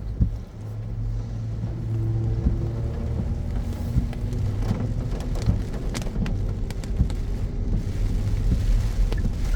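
A car driving through heavy rain: a steady low engine and road rumble, with scattered raindrops ticking sharply throughout.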